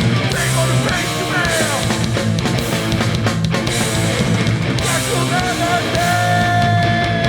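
Live hardcore punk band playing at full volume: distorted guitars, bass and drums with cymbal wash, with a long held note over the last second or so.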